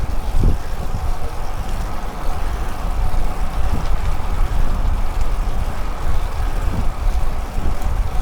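Steady low rumble of road and wind noise while travelling, with no distinct events.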